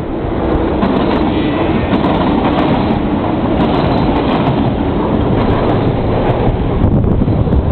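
Passenger train running along the tracks in a railway cutting: a loud, steady running noise that swells within the first second and then holds.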